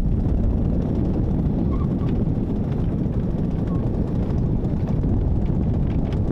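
Wind rumbling steadily on the microphone aboard a sailboat under way, a low noise with no clear engine or motor tone.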